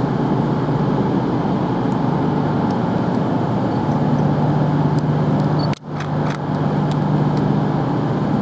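Steady low hum of a train standing at the station platform, with a few faint clicks. The sound cuts out for a split second about six seconds in.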